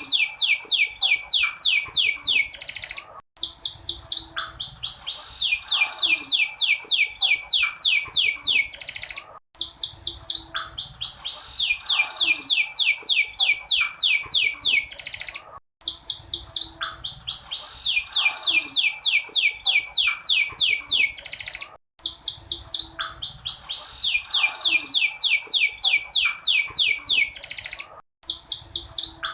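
Domestic canary trilling: rapid runs of short falling whistles, played as a loop that starts over every six seconds or so after a brief silent break. It is offered as a female canary's call used to stir a reluctant male canary into song.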